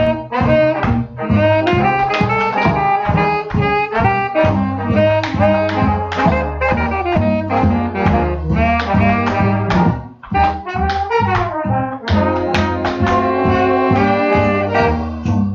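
Swing jazz band recording, horns (trumpet, trombone and saxophone) playing over a steady beat. The band breaks off briefly about two-thirds of the way through.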